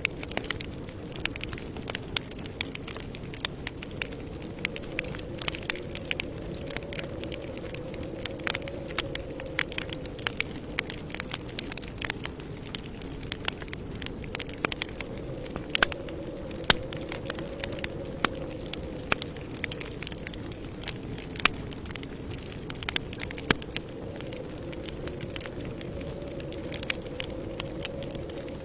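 Campfire crackling: many irregular sharp pops and snaps over a steady low rush of flames that slowly swells and fades.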